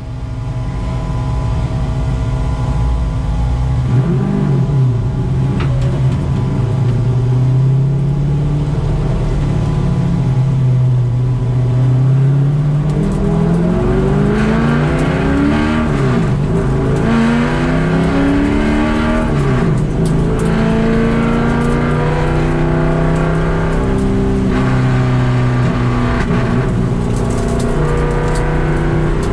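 2003 Corvette race car's V8, heard from inside the stripped, roll-caged cockpit. It runs steadily at first, then about halfway through the revs climb and fall repeatedly as the car accelerates on track.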